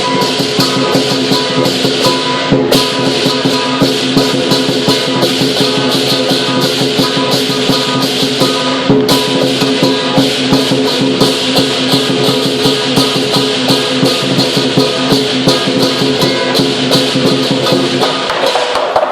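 Lion dance percussion: drum, clashing cymbals and gong playing a fast, steady, driving beat, which stops just before the end.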